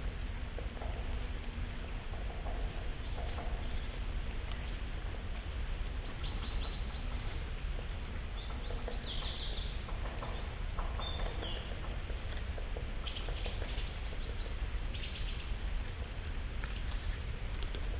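Small songbirds giving scattered thin, high-pitched calls and short chirps in a still deciduous forest, over a steady low background rumble.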